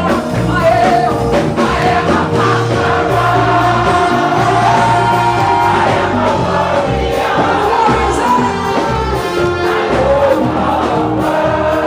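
Live gospel music: a choir and congregation singing with instrumental backing and a steady bass line.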